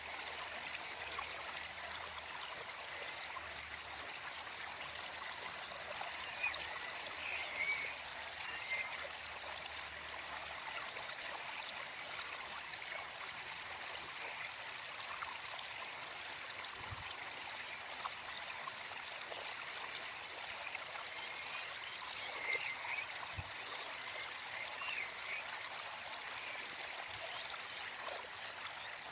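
Gentle forest stream flowing steadily, with birds singing in the background: scattered short chirps, in two clusters several seconds apart.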